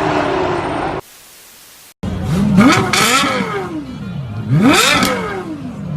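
A car engine revved hard twice, each time the pitch climbing quickly and then falling back, about two seconds apart.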